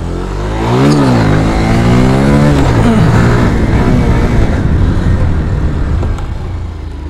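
Single-cylinder motorcycle engine revving hard as the bike accelerates. Its pitch climbs for about a second, drops, then holds fairly steady under throttle, with wind rushing over the microphone.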